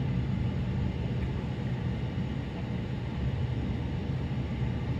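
Stationary Metrolink commuter train's steady low rumble, heard inside the passenger car as it idles at the platform.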